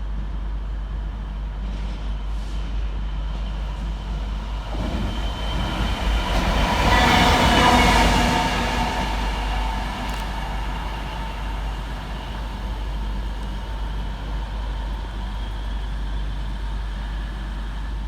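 Class 66 diesel-electric freight locomotive, with its two-stroke V12 engine, passing through at speed with its wagons. The engine and wheel noise build to a peak about seven seconds in, then fade as the train goes by, with a tone sliding down in pitch as it passes.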